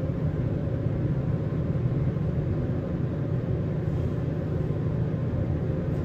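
Elevator car travelling down its shaft: a steady low rumble and hum from the moving cab, even throughout.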